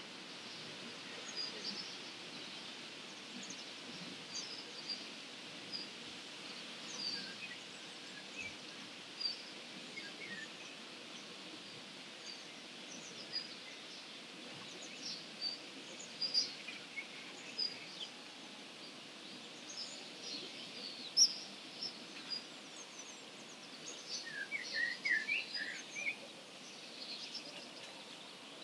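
Songbirds in a dawn chorus: many short, high chirps scattered through the whole stretch, with a quick run of lower notes near the end, over a steady background noise.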